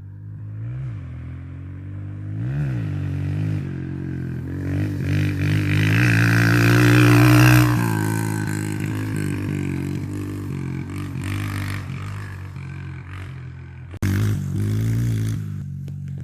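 Dirt bike engine revving as it is ridden, with two quick rev blips early on. It grows louder toward the middle as the bike comes closer, then fades as it moves away.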